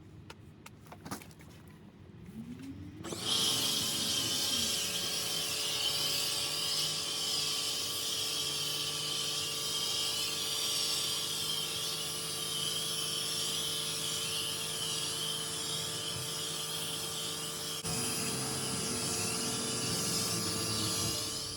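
A pressure washer starts about three seconds in, its motor spinning up to a steady hum. Over the hum comes the hiss of a foam cannon spraying soap onto the car.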